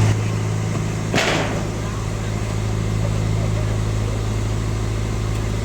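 Steady low drone from a horeg sound-system truck rig, a constant deep hum. About a second in, a short hissing crash rises and dies away.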